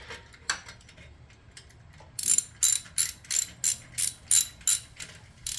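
Ratchet wrench clicking as it is worked back and forth, tightening an exhaust clamp on a slip-on muffler. After a couple of faint taps, the ratchet starts about two seconds in and clicks steadily at about three strokes a second.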